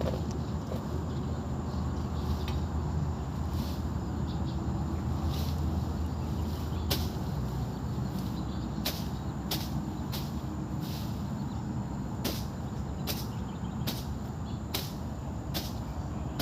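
Rhythmic swishing strokes of a hand tool during clearing or cleaning work, scattered at first and settling to about one stroke a second about halfway through, over a steady low rumble.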